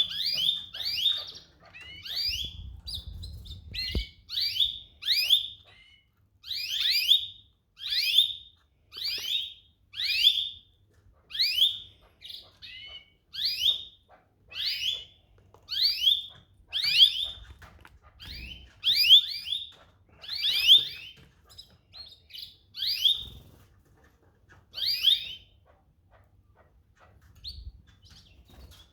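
Domestic canary calling over and over, one short high chirp about every second, the calls dying away a few seconds before the end.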